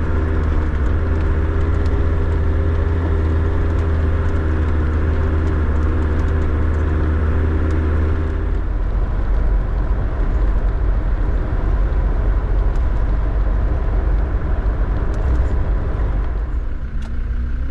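Land Rover Defender driving, its engine running steadily. About halfway through, the sound changes to a low, even rumble without the engine's steady tone.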